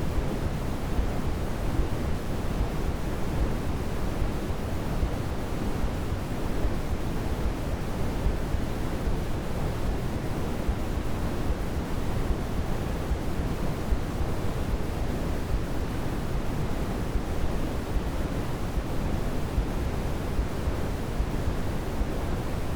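Steady sleep-aid white noise: a constant, even rushing noise weighted toward the low end, with no tones, rhythm or change.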